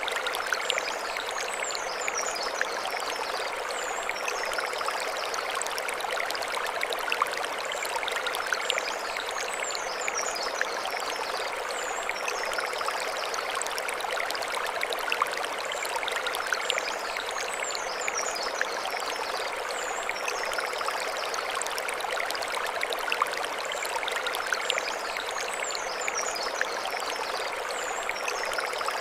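Mountain stream flowing and splashing over stones, a steady rush with frequent small splashes. Short high chirps come back about every eight seconds.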